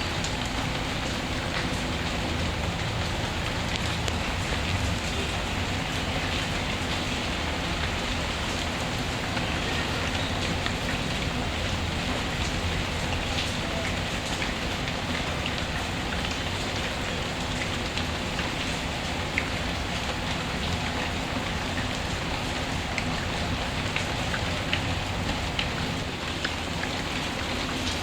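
Steady rain ambience mixed with a fireplace ambience: an even hiss of rain with scattered small ticks and crackles.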